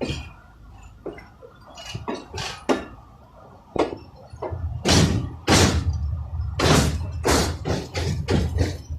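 Moving passenger train heard at an open carriage door: wheels knocking and clattering over the rails, with irregular clunks from the carriage. The knocks are scattered at first, then come thick and loud over a low rumble from about halfway through.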